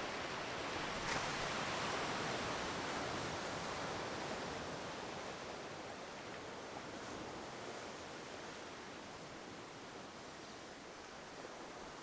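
Ocean surf washing on the shore: a swell of wave noise builds about a second in and slowly fades away.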